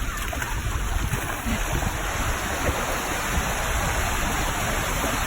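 Atlantic surf washing in a steady rush, with a low rumble of wind on the microphone.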